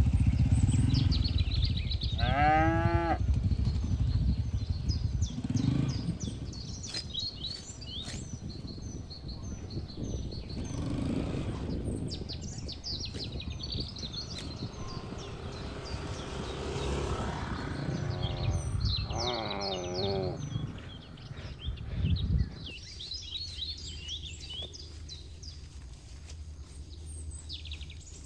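Cattle mooing twice, one call about two seconds in and another near twenty seconds, over small birds chirping throughout. A low rumble runs under them and drops away about three quarters of the way through.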